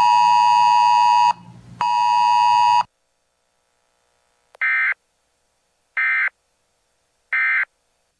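A weather radio gives two long, loud electronic beeps near 1 kHz. After a pause come three short, identical warbling digital data bursts about 1.4 seconds apart: the EAS/SAME end-of-message code that closes a weather alert broadcast.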